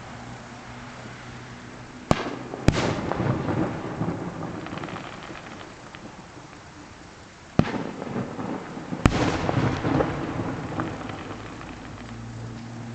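Fireworks shells bursting at a distance: four sharp bangs, two about two seconds in and two more around eight and nine seconds. Each is followed by a long rolling rumble and crackle as the report echoes off hills.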